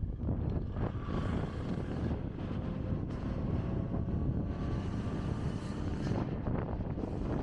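Kawasaki Ninja ZX-25R's inline-four engine running on the move, half-buried under steady wind buffeting the microphone.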